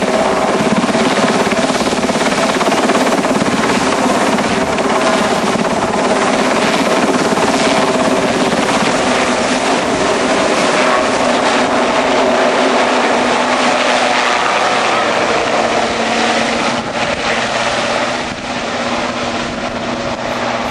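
RAF Westland Sea King helicopter, its twin turboshaft engines and rotors running loudly and steadily. The sound eases a little near the end.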